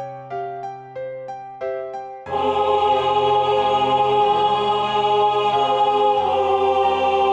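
Rehearsal track of a part-song for choir: a piano plays a short line of quick detached notes, then about two seconds in sustained choir chords enter and hold, the parts shifting pitch twice.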